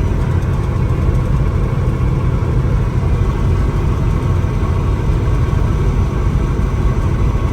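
Steady in-cab rumble of a vehicle driving along the highway: engine drone and road noise, even and unbroken.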